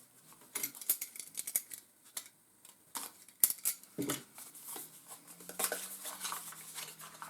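Bird Buddy suet ball holder being unpacked and handled: irregular clicks and rattles, with a sharper click about three and a half seconds in.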